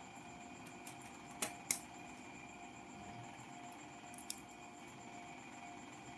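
Light clicks of plastic keyboard-key parts being handled, two about a second and a half in and two fainter ones about four seconds in, over a faint steady hum.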